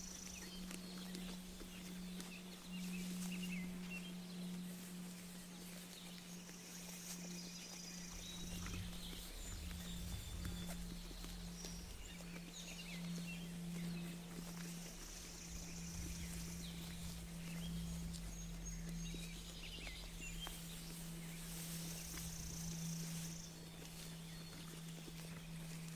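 Sheep grazing close by, tearing and chewing grass in a stream of short soft clicks, with birds chirping across the field. A steady low hum runs underneath.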